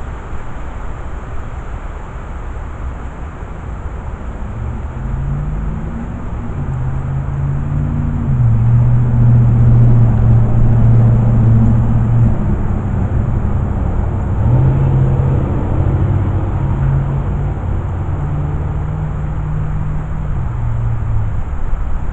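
Motor vehicle engine running over a steady low rumble. Its low note comes in a few seconds in, rises and drops in steps several times, is loudest in the middle, and fades near the end.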